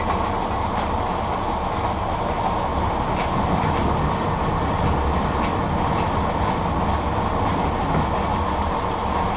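W.F.&J. Barnes No. 13 metal lathe running steadily under power, driven through a three-speed car transmission, with a steady mechanical rumble and rattle. The owner puts the machine's vibration down to a twisted, rolling drive belt and a wobbling pulley.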